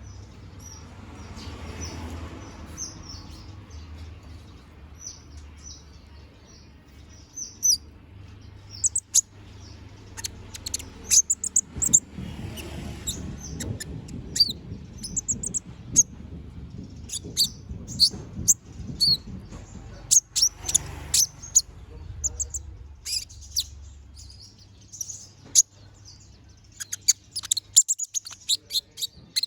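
A konin sunbird singing: rapid strings of short, sharp, high-pitched chirps and trills, sparse at first and then coming thick and fast, with a dense flurry near the end. A faint low rumble lies underneath.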